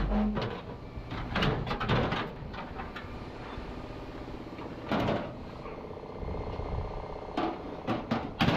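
Knocks and clanks of metal being handled and struck while a truck cab is repaired, in clusters about a second and a half in, at five seconds, and again near the end, over a steady low hum.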